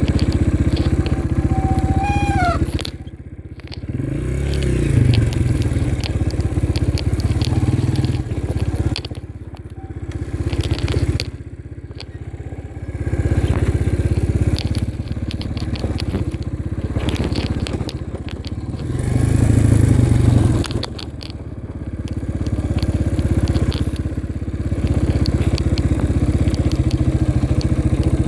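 Dirt bike engine under riding load, its level rising and falling every few seconds as the throttle is opened and eased off, with frequent clicks and knocks over it.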